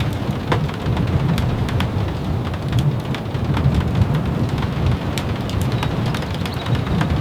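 Steady rain falling, with a continuous low rumble underneath and many scattered sharp ticks on top.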